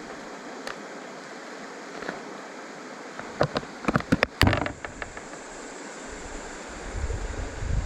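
Steady rush of river water, broken about three and a half seconds in by a quick run of sharp knocks and clatters, the loudest part. Low wind buffeting on the microphone comes in near the end.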